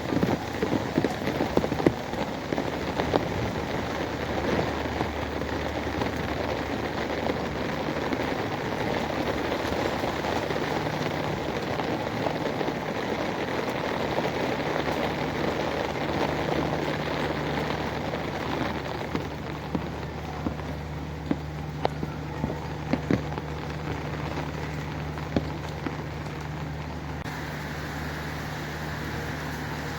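Rain falling, with many sharp drips and splashes that are dense at first and thin out to scattered drips in the second half. A steady low hum runs underneath.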